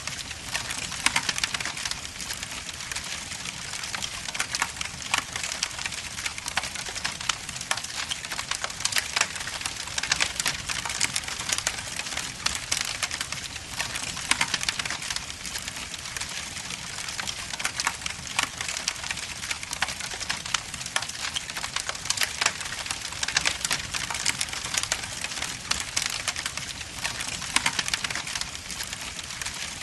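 Wood logs burning in a fireplace, crackling and popping continuously: a dense, irregular stream of sharp snaps over a steady hiss.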